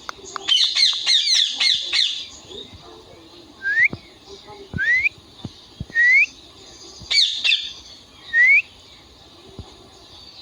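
Indian ringneck parrot calling: a quick run of harsh, chattering squawks in the first couple of seconds, then four short rising whistles spaced a second or two apart, with another brief burst of squawks between them.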